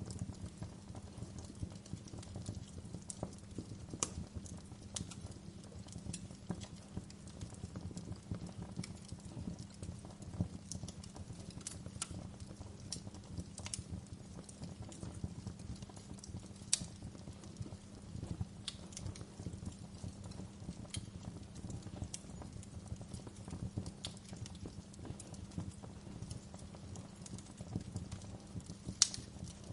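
Fire in a fireplace crackling: irregular sharp pops and snaps over a steady low rumble of flames, with one louder pop near the end.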